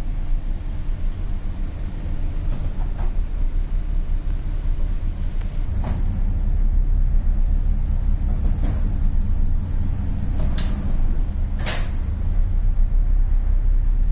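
Steady low rumble of a ship's engine and hull vibration, with a few sharp knocks, the loudest two close together near the end.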